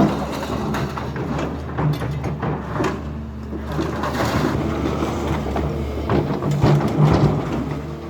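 Demolition machinery: a diesel engine running steadily with irregular crunching and knocking of broken material.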